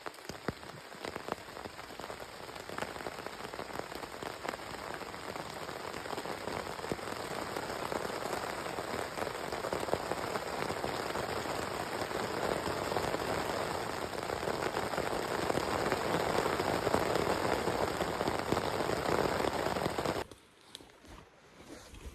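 Rain falling steadily, with many separate drop strikes heard through it, growing louder over the first ten seconds or so and cutting off suddenly about twenty seconds in.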